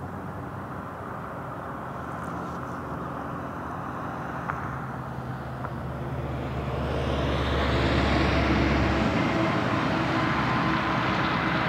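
Union Pacific freight train's GE diesel-electric locomotives approaching: a steady low engine drone with rail and wheel noise, growing louder about halfway through and staying loud.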